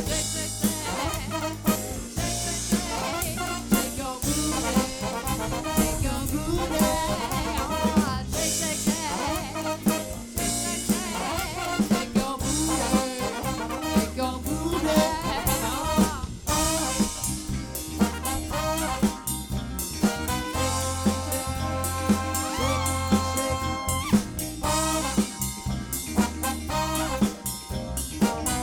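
Live band with a horn section playing an instrumental passage: brass over a drum kit and a steady bass line, with horns holding long notes from about twenty seconds in.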